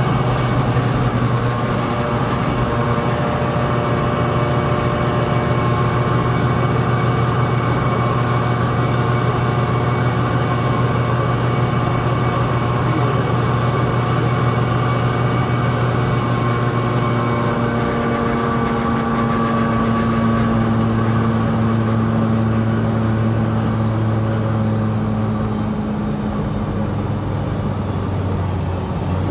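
2020 New Flyer XD60 articulated diesel bus running, with a steady engine and drivetrain hum whose tones shift in pitch around the middle and later part, as the bus's speed changes.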